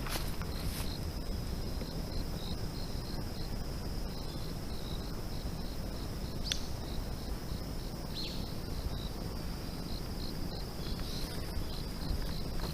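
Insects singing: a steady high-pitched drone with a train of short chirps repeating about three times a second, over a steady low rumble. Two brief sharp calls cut in around the middle.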